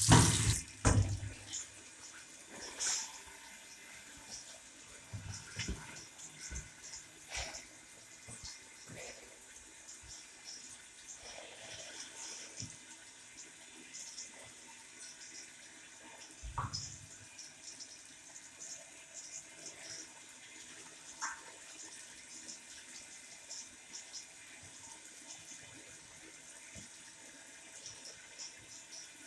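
Tap water running into a wall-mounted washroom sink, a faint steady hiss, after a loud knock right at the start; small clicks come and go, with a low thump a little past halfway.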